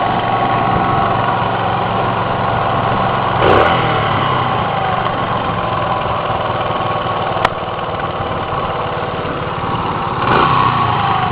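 Motorcycle engine running steadily, with brief rises in revs about three and a half seconds in and again near the end. A single sharp click comes about halfway through.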